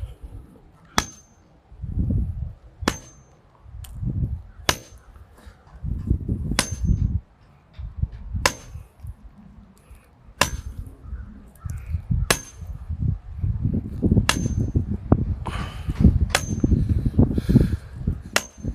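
Sledgehammer striking the top of a well pipe being driven into the ground, about ten sharp metallic clangs each with a short ring, roughly every two seconds. Wind gusts rumble on the microphone between strikes.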